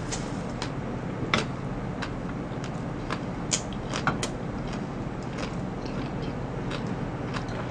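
A person chewing a large mouthful of food: scattered short mouth clicks and smacks over a steady background hiss.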